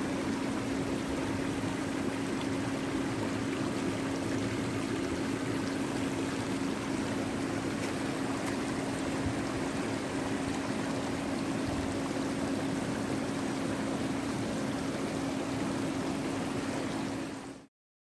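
Steady rushing of flowing water, with a steady low hum underneath; it cuts off suddenly near the end.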